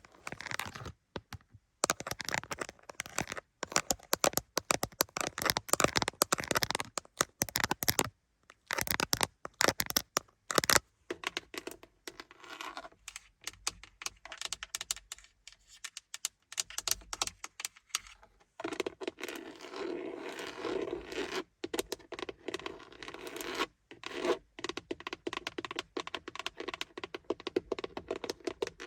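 Close-up scratching and tapping on car interior surfaces in quick, dense strokes, quieter in the middle stretch and fuller and steadier in the last third.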